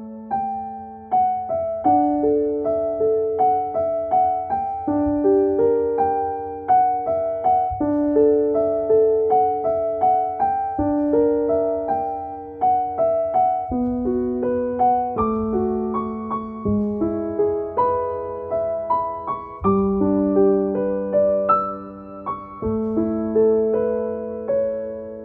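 Soft piano music: a gentle flowing melody over held low notes, each note struck and fading.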